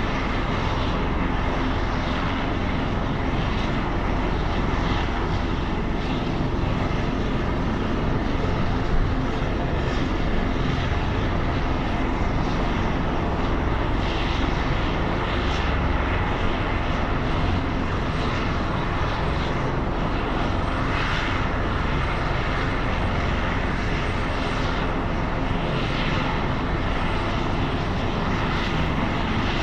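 A helicopter's turbine engine and rotor running steadily and loudly.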